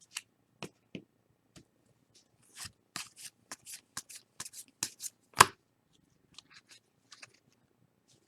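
Trading cards being flipped through and slid against each other by hand: a run of quick, soft flicks, thickest in the middle with one louder snap about five seconds in, then a few sparse ticks.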